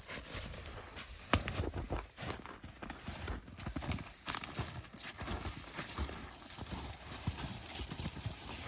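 Footsteps crunching in snow, a steady run of irregular crunches as a person walks.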